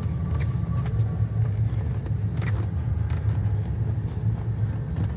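1997 Ford F-250 HD pickup on the move: a steady low engine and road rumble.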